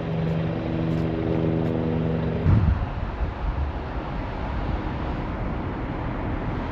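A vehicle's steady hum, which stops with a loud thump about two and a half seconds in, followed by an even rumbling noise.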